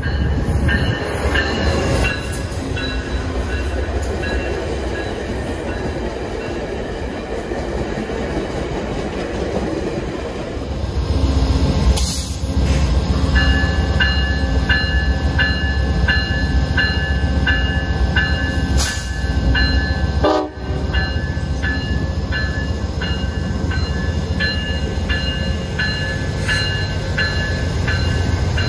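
VIA Rail train led by GE P42DC diesel locomotive 903, pulling away from the platform. The engine's low rumble builds about halfway through, and from then on the locomotive bell rings steadily, about one and a half strikes a second.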